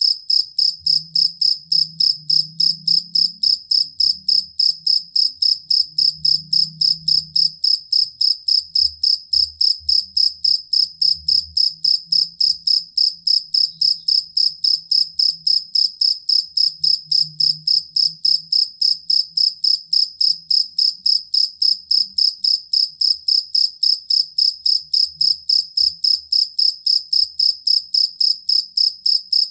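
Jangkrik kalung (two-spotted field cricket) chirping in an even, unbroken rhythm of about three high chirps a second.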